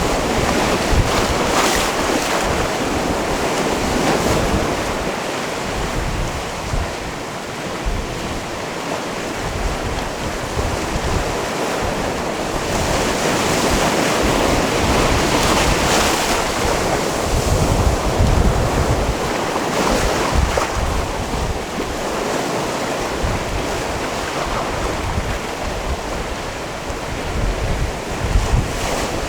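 Sea waves washing against a rocky shore: a continuous surging wash that swells and eases every few seconds, with wind buffeting the microphone in a low, uneven rumble.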